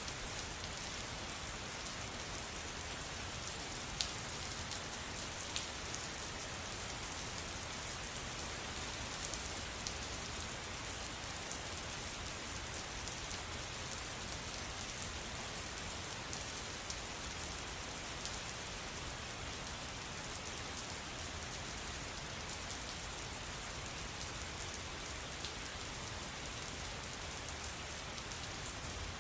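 Steady rain falling, an even hiss with a few sharper drop taps standing out here and there.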